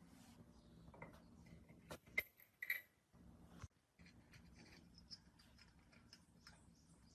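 Faint light clicks and clinks of small metal parts being handled, with two sharper clinks about two seconds in, over a faint low steady hum.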